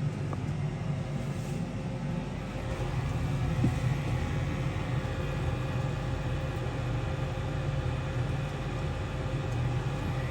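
Gas furnace inducer fan motor running steadily, a continuous hum and rumble.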